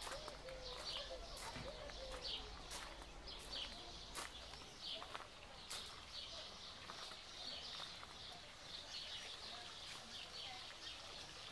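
Small birds chirping repeatedly in garden trees, short high calls coming one after another, with a few sharp clicks among them.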